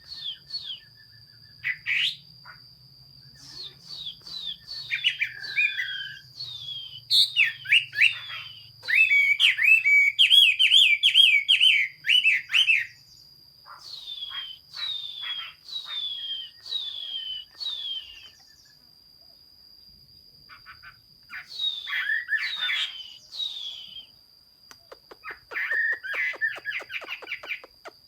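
Chinese hwamei singing: loud, varied whistled phrases, with runs of repeated falling notes, a fast rich warble in the middle, and short pauses between phrases.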